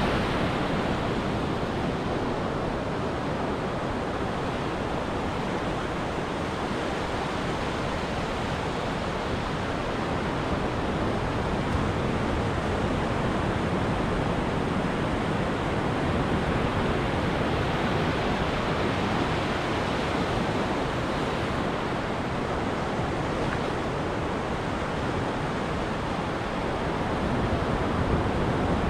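Ocean surf washing onto a beach: a steady rushing noise of breaking waves that swells a little near the end.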